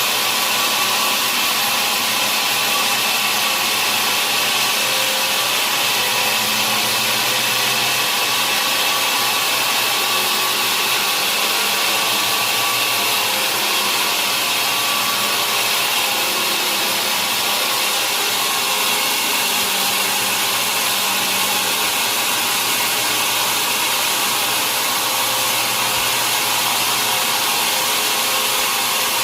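Sawmill saw cutting steadily through a large log: a loud, even, high-pitched mechanical whine and rush that runs without a break.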